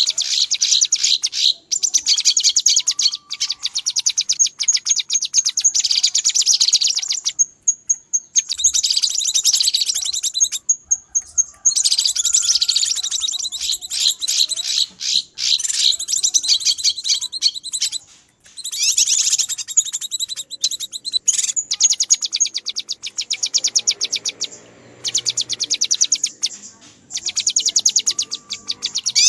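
Cucak kinoi bulbul giving loud, agitated alarm-type chatter: fast, dense runs of harsh calls in long bursts with brief pauses between them, the noisy calling used as a lure for wild kinoi.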